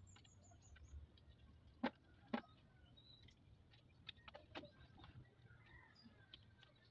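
Faint bird chirps over a quiet rural background, with a few sharp clicks and knocks, the two loudest about two seconds in.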